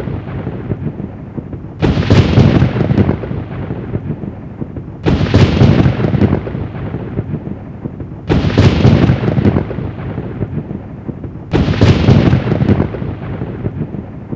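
Four sharp thunderclaps about three seconds apart, each cracking suddenly and then rolling off into a low rumble.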